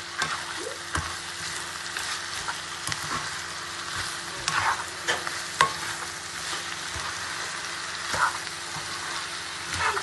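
Food sizzling in hot oil in a pan while a spatula stirs it, scraping and clicking against the pan many times.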